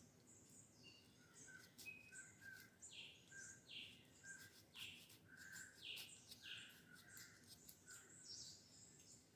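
Faint birds chirping: short high notes that sweep downward, repeated roughly every second, with a few soft clicks.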